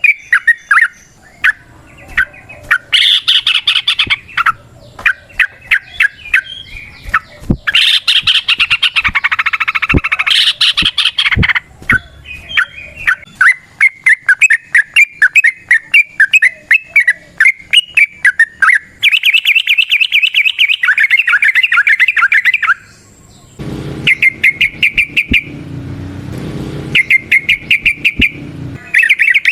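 Yellow-vented bulbul (trucukan) singing long, fast runs of rapid repeated chattering notes with brief pauses between them. A low rumbling noise sits under the song for a few seconds near the end.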